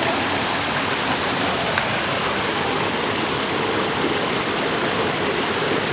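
River water rushing over rocks, a steady, unbroken rush.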